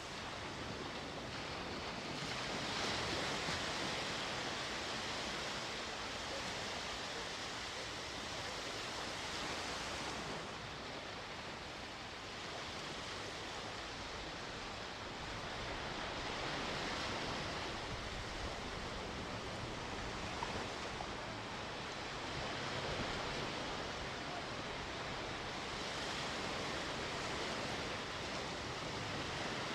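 Mediterranean sea waves washing onto the shore: a steady hiss of surf that swells and eases every several seconds.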